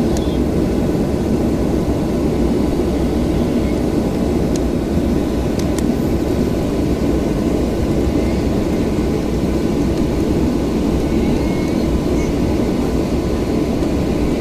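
Cabin noise inside a Boeing 737-800 on the ground before takeoff: the steady low rumble of its CFM56-7B jet engines at idle, with a faint steady whine.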